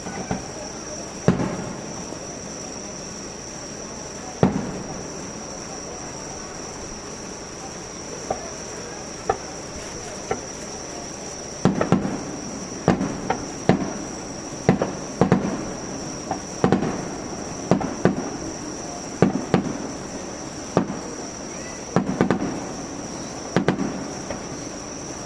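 Fireworks exploding: two single booms in the first few seconds, then from about halfway a rapid run of bangs, one or two a second, each with a short echoing tail.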